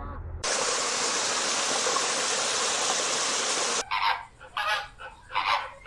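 A steady hiss of about three seconds starts and stops abruptly, followed by a run of irregular honking bird calls.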